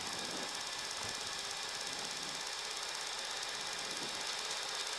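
Steady cockpit noise of an E-3 Sentry rotating and lifting off on its takeoff run: an even hiss of engines and rushing air, with a faint steady hum underneath.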